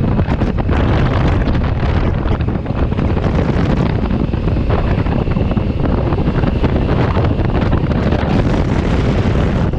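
Loud, steady wind buffeting the microphone of a camera on a moving motorcycle, with the bike's road noise underneath.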